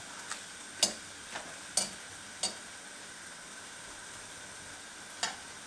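Beef sizzling steadily as it browns in a wok, with a handful of sharp clicks, most of them in the first two and a half seconds and one more near the end.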